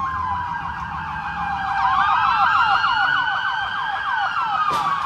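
Several police car sirens sounding at once, overlapping: a fast yelp sweeping several times a second over a slower rising and falling wail.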